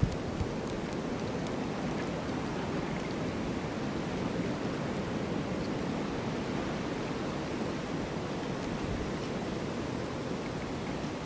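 Snowstorm wind blowing steadily, an even rushing noise that neither rises nor falls, with a few faint ticks.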